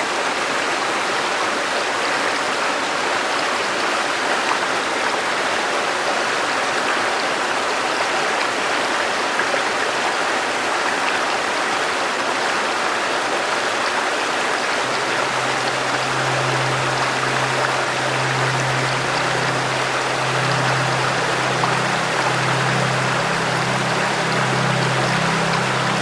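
River water flowing steadily. About halfway through, soft low background music comes in under the water sound.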